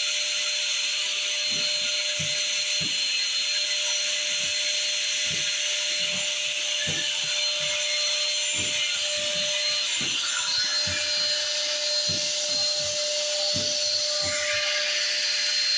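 Shop vac running steadily, sucking lint out of a dryer vent, with a constant hum and irregular low thumps throughout.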